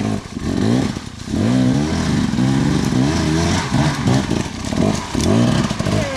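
Dirt bike engine revving in repeated throttle bursts, its pitch rising and falling about five or six times.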